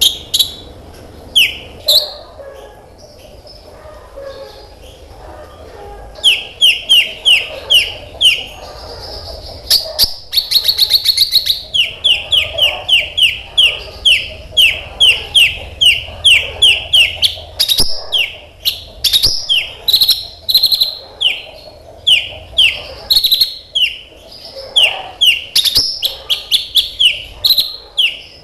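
A kolibri ninja (konin) sunbird singing energetically in rapid runs of sharp, downward-sweeping chips, about three to four a second. The song drops off briefly early on and then resumes, with a very fast buzzy trill about ten seconds in.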